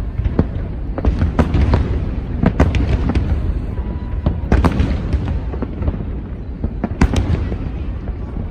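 Aerial fireworks bursting in quick, irregular succession: many sharp bangs, several close together, over a continuous low rumble.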